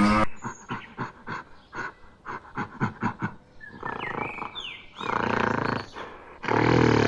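A large wild animal calling. First comes a quick run of short, sharp pulses, then a few high rising chirps, then two longer, louder calls in the last two seconds.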